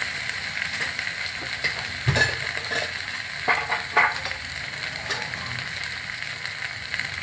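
Chopped onions, green chillies and mint leaves sizzling in oil in a pressure cooker, a steady frying hiss. A few sharp knocks stand out, the loudest about two seconds in and two more around three and a half and four seconds.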